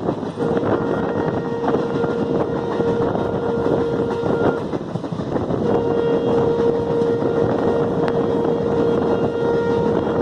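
Passenger express train running through the station, a steady rumble of the moving carriages with a steady hum over it that drops out for about a second midway.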